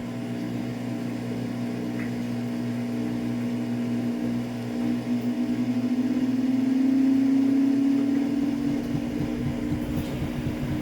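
Samsung AddWash front-load washing machine spinning its drum, making a steady low hum with the cabinet vibrating. A throbbing wobble in the hum swells about halfway through, peaks, then settles back to the steady hum.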